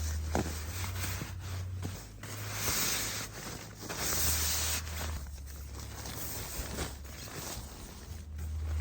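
Irregular rustling and scraping, with louder swells about three and four seconds in, over a low steady hum.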